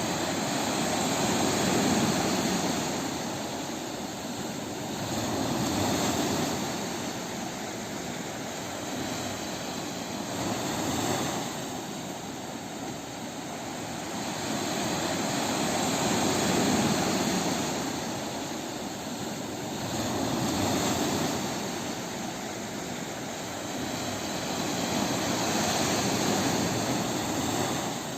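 Ocean surf on a beach: a continuous rush of waves that swells and falls back about every four to five seconds.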